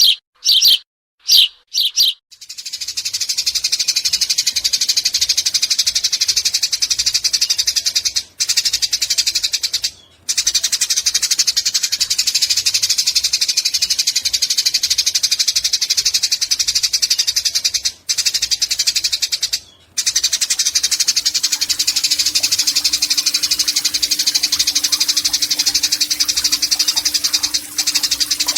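Eurasian tree sparrow giving a few sharp chirps, then a long, very rapid buzzing chatter that runs on with only a few brief pauses.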